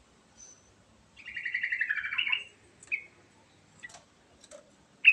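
Sooty-headed bulbul (trucukan) singing: a rapid run of repeated notes about a second in, sliding slightly down in pitch, then a single short note, and a loud new phrase right at the end.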